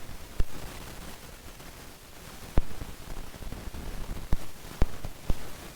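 Steady hiss of a light aircraft's headset intercom, broken by five short sharp clicks spread through it.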